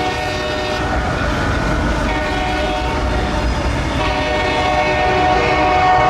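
CSX diesel locomotives' horn sounding in long blasts: one ending about a second in, a short one around two seconds in, and another from about four seconds on. Underneath runs the low rumble of the passing locomotives' diesel engines.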